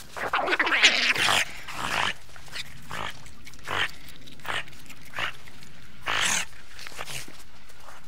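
Otters calling in the water: a dense burst of squeaky, rising and falling calls in the first two seconds, then a string of short separate calls about once every half second to second.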